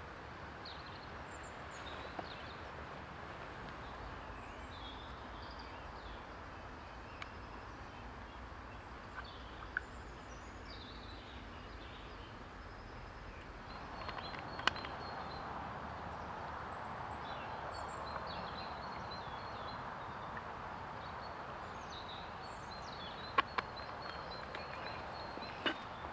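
Small birds chirping now and then over a steady outdoor hiss, which grows louder about halfway through, with a few sharp clicks.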